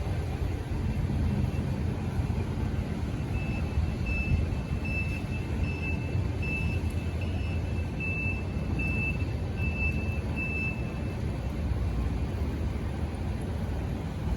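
Steady low outdoor rumble of wind and distant engines, with a run of about ten short, high-pitched electronic beeps, a little under one a second, through the middle.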